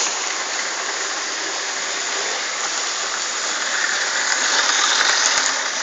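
Self-made model train running on its track: a steady noisy rush that grows louder about four seconds in.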